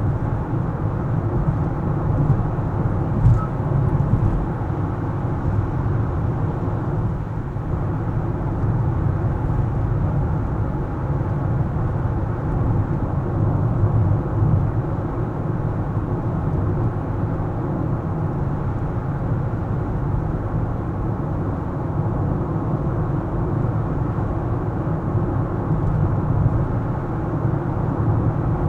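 A car driving on city streets: steady low road and engine rumble, with one short knock about three seconds in.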